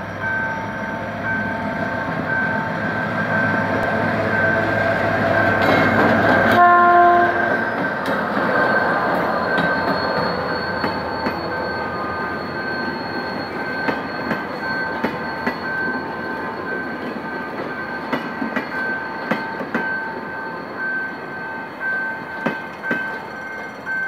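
A GM GT22CW-2 diesel-electric locomotive, with its 12-cylinder EMD two-stroke engine, passes with its engine running and gives a short horn blast about seven seconds in. The passenger coaches then roll by, their wheels clicking over the rail joints. A level-crossing warning bell beeps steadily throughout.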